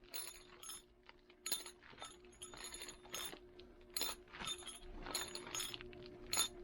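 A loose metal collar, the mini lathe's replacement part, clinking and rattling inside a plastic shipping bag as the package is shaken: a string of irregular light metallic clinks.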